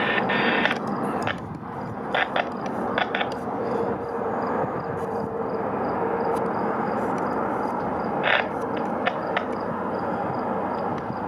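Steady rumble of a distant freight train running, with a faint steady tone through the middle. Several short clicks and knocks from the camera being handled are heard along the way.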